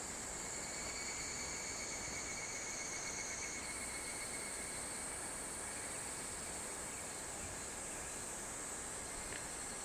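Steady high-pitched chorus of summer insects over an even hiss; the highest strand steps up slightly in pitch about three and a half seconds in.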